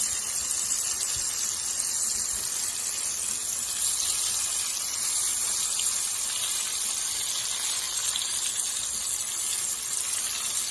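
Potatoes frying in hot oil in a pot: a steady, even sizzle.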